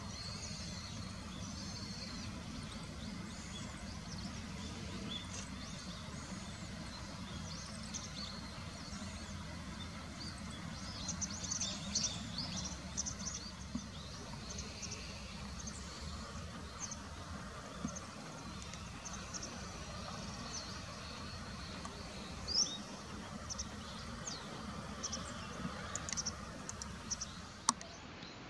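Small birds chirping and twittering, many short high calls, busiest about twelve seconds in, over a steady low background hum, with a sharp click near the end.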